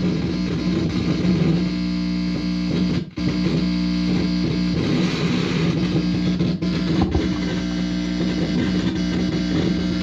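Guitar amplifier buzzing with hum and crackle from a guitar cable whose open end is held against the body, picking up electrical interference. The buzz cuts out briefly about three seconds in.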